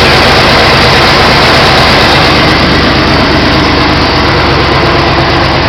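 Big-block Chevy V8 running steadily at idle, loud throughout, with the noise that the video puts down to the clutch.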